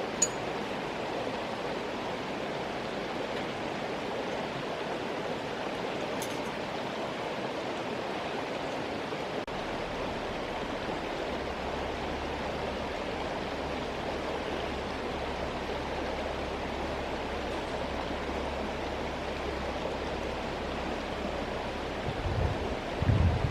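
Steady rushing of a river or stream. There is a single sharp click just after the start, and gusts of wind buffet the microphone near the end.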